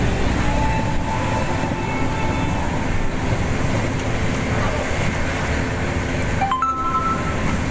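Moving passenger train running steadily along the line, its wheels and carriage rumbling, heard through an open barred window. Near the end a short rising two-note tone sounds over it.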